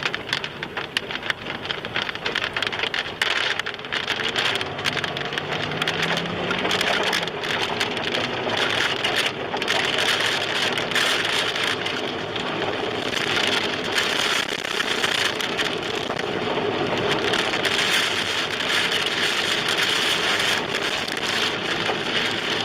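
Torrential rain driven by tornado winds, beating on a car, with a dense stream of sharp hits against the body and glass.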